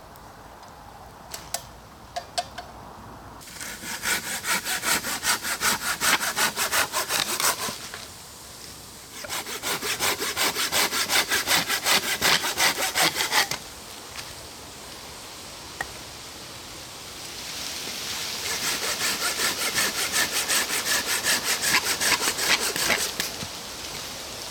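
Hand saw, a Silky Bigboy folding saw, cutting through firewood in three bouts of fast back-and-forth strokes, about three a second, with short pauses between bouts. A few light clicks come before the first bout.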